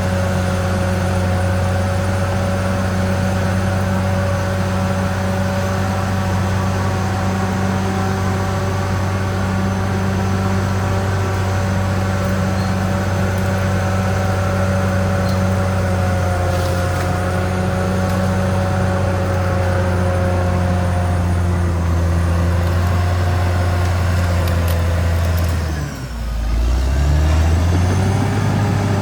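CAT D6R XL bulldozer's diesel engine running steadily, with a steady whine above the low engine note. Near the end the engine note drops sharply and then climbs back up as it revs again.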